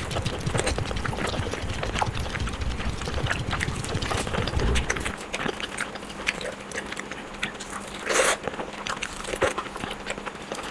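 Close-miked chewing and mouth sounds of a person eating fried eggs: a run of soft wet smacks and clicks, with a louder smack or slurp about eight seconds in.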